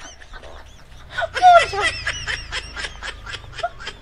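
A person laughing: a loud burst about a second in, then a run of quick short ha-ha pulses that trails off near the end.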